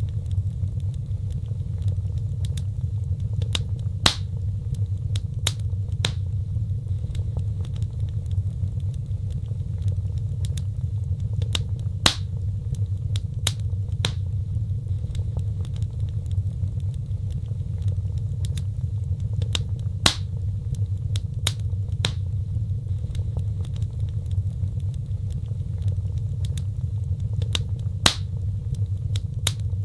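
Wood fire burning in a fireplace: sharp crackles and pops at irregular intervals over a steady low rumble, the loudest pops coming about every eight seconds.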